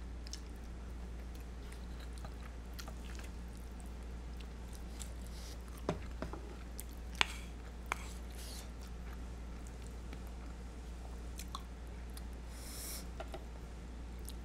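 Close-miked chewing of creamy spaghetti carbonara, with a few sharp clicks of chopsticks against a bowl about halfway through, over a steady low hum.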